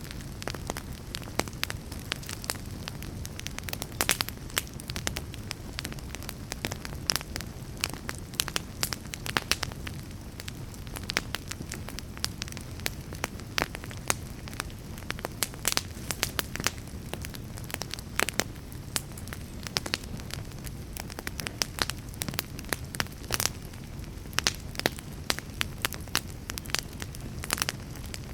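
Fire crackling: a steady low hiss and rumble of burning wood with irregular sharp pops and snaps throughout, a few louder pops among them.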